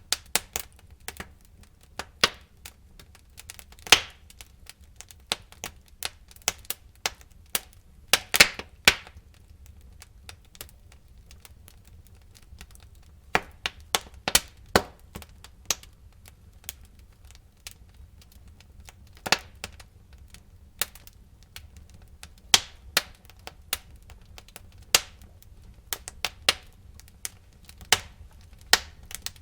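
Wood fire crackling in a fireplace: irregular sharp cracks and pops from the burning logs, some much louder than others, over a faint low rumble of the flames.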